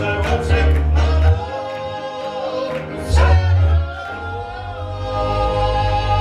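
Southern gospel male quartet singing in harmony over band accompaniment with a strong bass. The voices settle into a long held chord for the last couple of seconds.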